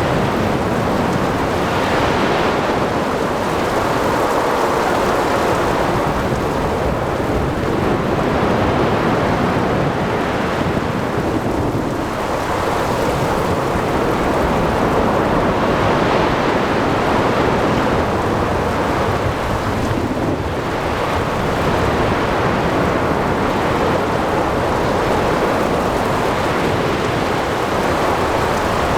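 Ocean thunderstorm ambience: steady rain and wind over surf, with waves swelling and breaking every several seconds and a low rumble of thunder beneath.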